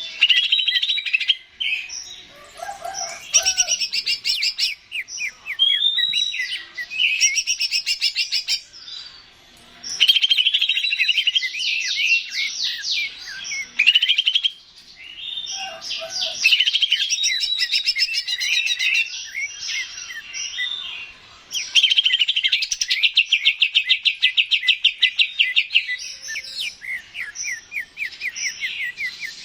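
Cucak ijo (green leafbird) singing continuously in fast chattering trills and warbled phrases, with rapid runs of repeated notes and brief pauses every few seconds.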